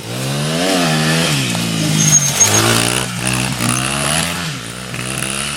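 Homemade dirt bike's engine revving, its pitch climbing and dropping twice, then running steadier and getting a little quieter near the end.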